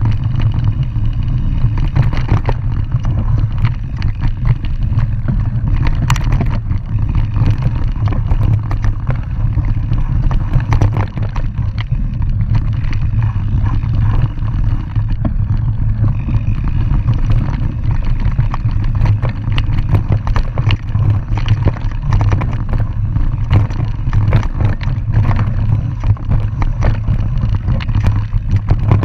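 Mountain bike descending a dirt trail: steady wind rumble on the microphone, with frequent rattles, clicks and knocks from the bike over rough ground.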